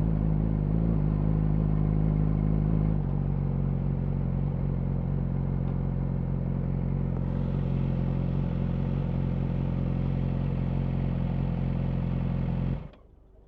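Yamaha R6 inline-four engine running steadily through an Akrapovic slip-on exhaust, its note dropping slightly about three seconds in, then cut off abruptly near the end as the engine is switched off.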